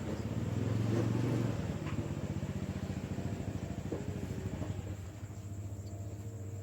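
Motorcycle engine idling: a steady low rumble with an even, rapid pulsing through the middle stretch that settles into a smoother hum near the end.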